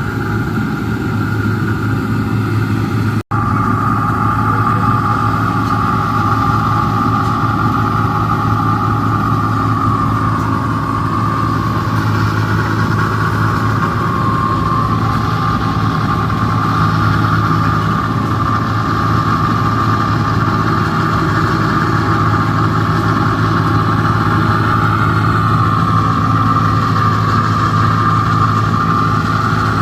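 New Holland Clayson 1545 combine harvester running steadily: a continuous diesel engine drone with a steady high whine on top. The sound cuts out for an instant about three seconds in.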